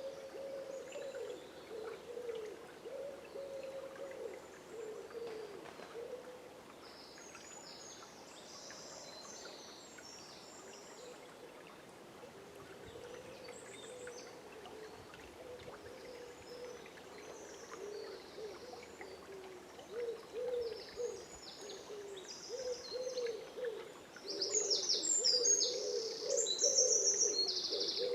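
Birds at dawn in a riverside forest: low, wavering hooting calls repeat almost without pause. Bursts of high, quick songbird chirps come in about eight seconds in, and again louder near the end.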